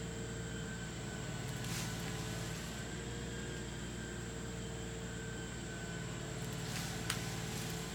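LS XR3135 compact tractor's diesel engine running steadily, with a few faint clicks.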